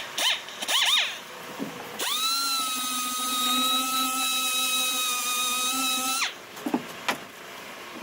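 A dual-action sander gives two short blips, then is run up to speed. It holds a steady whine for about four seconds and then winds down when switched off.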